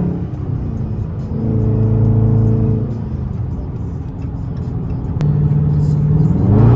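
The 5.7-litre HEMI V8 of a 2023 Dodge Charger R/T with its mid mufflers deleted, droning under throttle while driving. Its pitch rises and falls with the throttle and climbs as it accelerates near the end.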